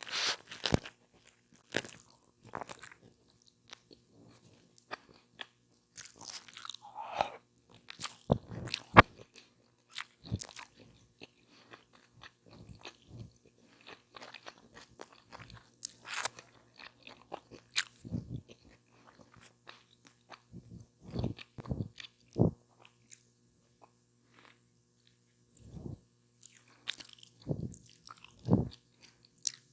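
Close-miked eating of chicken tacos: crisp bites and crunchy chewing with wet mouth sounds, in irregular clusters with short pauses between.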